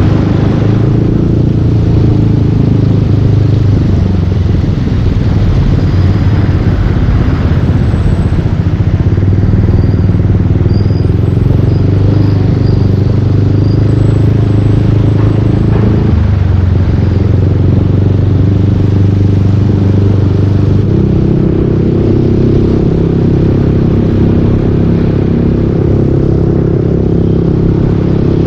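Yamaha Aerox 155 scooter's single-cylinder engine running through a full Yoshimura exhaust while riding, over a steady rushing noise. The engine note shifts a little past halfway and steps up in pitch about three quarters of the way through.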